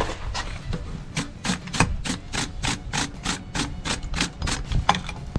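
Wire brush scrubbing back and forth over a scarfed mild-steel rod end, a regular run of scratchy strokes about three a second, cleaning the weld surface before it is fluxed for a forge weld.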